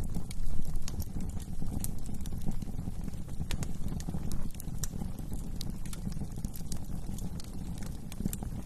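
Wood fire burning in a fireplace: many small irregular crackles and pops over a steady low rumble of the flames.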